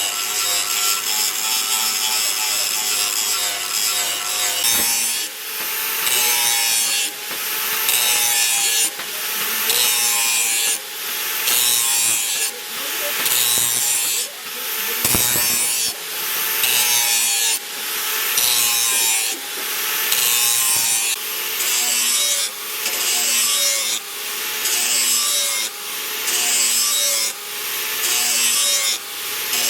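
Hand file rasping across a forged steel sickle blade: a steady scrape for the first few seconds, then regular back-and-forth strokes about one a second.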